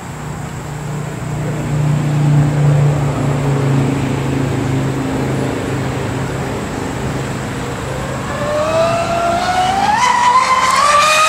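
RC hydrolift speed boat's engine running at a steady low drone, then about eight seconds in rising into a high whine that climbs sharply near the end as the boat accelerates to speed.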